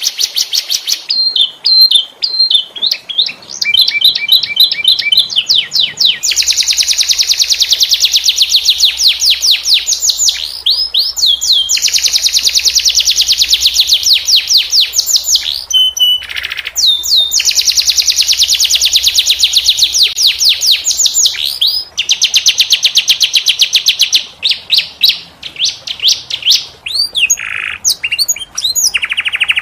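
Domestic canary singing a long song of fast, rapidly repeated-note rolling trills, broken by a few short pauses.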